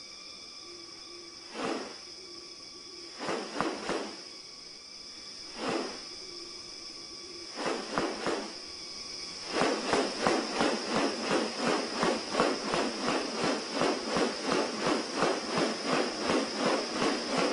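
New Guinea rainforest sounds: a steady high insect drone with a few separate harsh calls, then, a little past halfway, a fast, even run of pulsing calls about three a second that is louder than anything before it.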